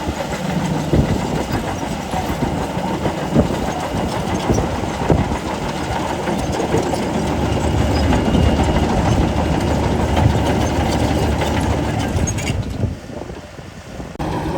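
Crawler bulldozer's diesel engine working under load, with scattered metallic clanks from the tracks. Near the end it drops much quieter for about a second and a half, then comes back.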